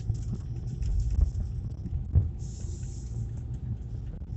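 Road noise inside a moving car's cabin: a steady low rumble with a few knocks as the car goes over bumps, and a short rise of hiss about halfway through.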